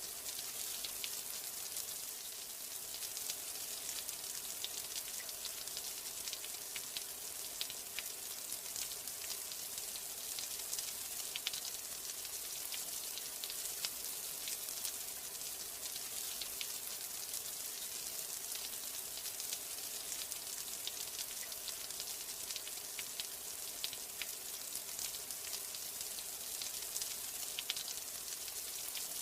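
Steady rain: a dense, even hiss of falling rain with many fine, crackly drop ticks.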